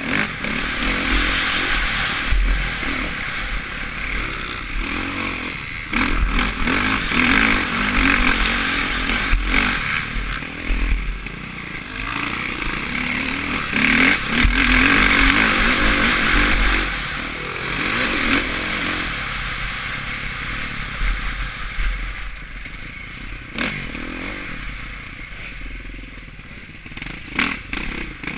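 Suzuki RM-Z450 motocross bike's single-cylinder four-stroke engine, heard from a helmet-mounted camera while riding. It revs up and backs off repeatedly as the throttle is opened and closed around the track, with occasional knocks and clatter.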